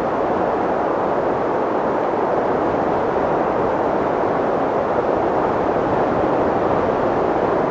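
Wind sound effect: a steady, even rush of wind with no whistling tone and no gusts.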